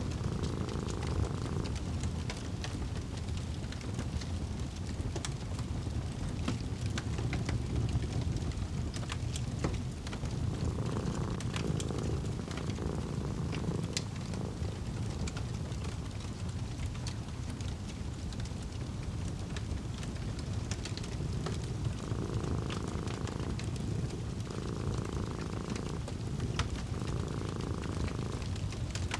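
A cat purring over a crackling wood fire: a continuous low rumble with scattered sharp pops and crackles throughout.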